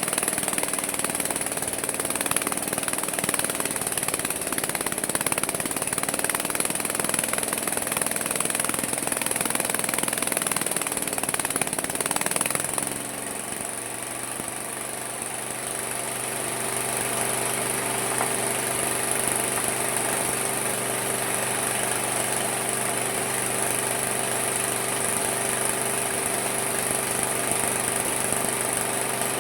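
Homemade mini sawmill cutting wood, a dense, rough noise over the running saw, which ends about 13 seconds in. After that the saw keeps running steadily with an even hum, free of load.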